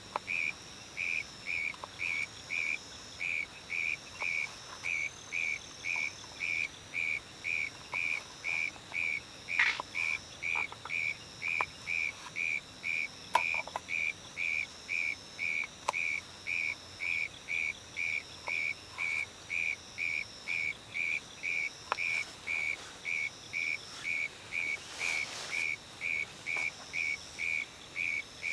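A short, high note repeated evenly about twice a second, like an animal's rhythmic night call. A fainter, wavering higher call runs behind it, with a few scattered faint ticks.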